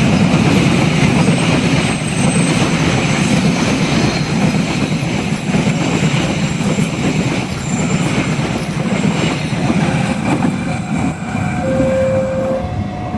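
A passenger train's carriages roll past close by, a loud steady rumble of wheels on rail with some clickety-clack. Near the end an alternating two-tone warning alarm starts, each tone held about a second.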